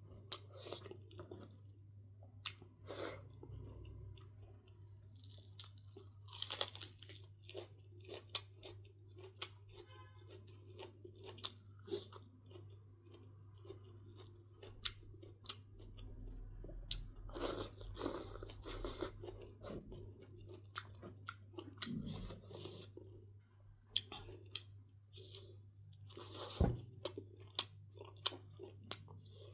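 Close-miked mouth sounds of a person eating: irregular crunching, biting and chewing of food, with a few louder, longer crunchy bouts. A steady low hum runs underneath.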